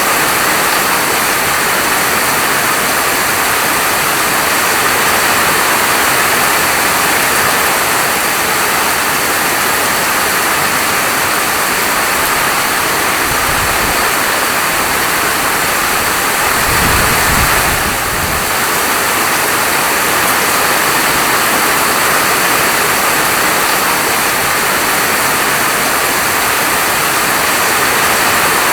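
Steady heavy rain falling, a dense, even hiss, with a brief low rumble twice near the middle.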